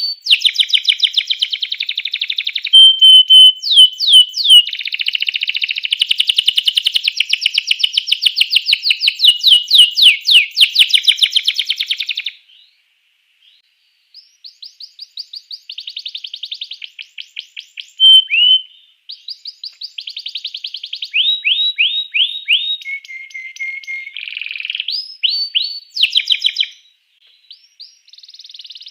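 Domestic canary singing a long song of rapid trills, rolls and sweeping whistled notes. It breaks off briefly about twelve seconds in, then starts again.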